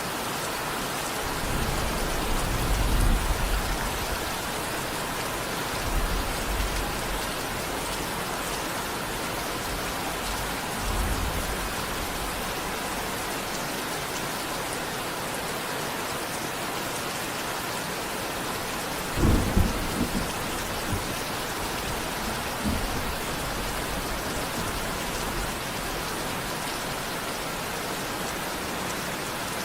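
Steady heavy rain with distant thunder. The thunder rumbles low several times, and a sharper clap comes about two-thirds of the way through.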